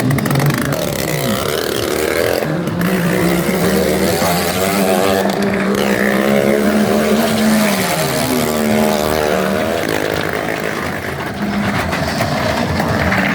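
Motorcycle engine revving hard, its pitch rising and falling repeatedly as it is throttled up and eased off.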